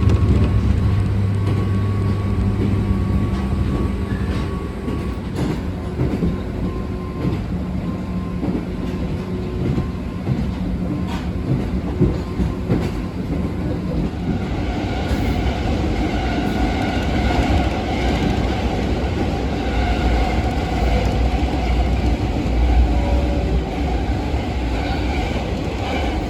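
Abukuma Express 8100 series electric train heard from inside the carriage while running, with a steady low rumble and wheels clacking over rail joints. A steady hum fills the first few seconds, and a higher whine comes in about halfway through.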